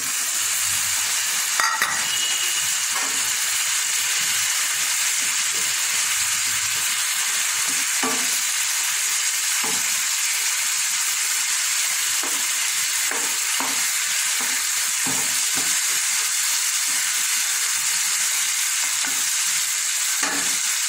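Boiled mutton pieces sizzling in a non-stick frying pan of hot oil and fried spice paste. The steady frying hiss starts suddenly as the meat and its cooking liquid go into the pan. Occasional short taps and scrapes come from stirring.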